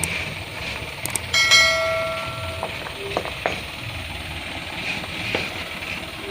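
Sharp metallic knocks, with one ringing clang about a second and a half in that hangs on like a struck bell for about a second, over a low engine rumble.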